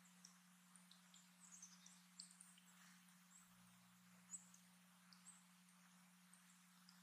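Faint chirping of small birds: many short, high chips and calls scattered throughout, over a steady low hum.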